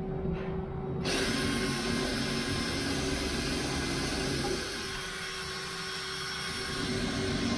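A power tool switches on about a second in and runs steadily with a hiss, easing off a little in the second half.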